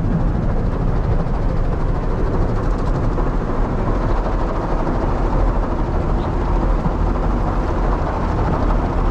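Automatic car wash spraying water over the car, a steady loud rush of spray heard from inside the cabin, with water getting in through the open roof hatch.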